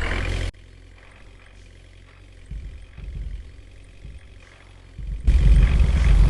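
A heavy vehicle's engine rumble that cuts off abruptly about half a second in. Then comes a quiet stretch with a few faint low rumbles, and about five seconds in a loud, deep engine rumble starts suddenly.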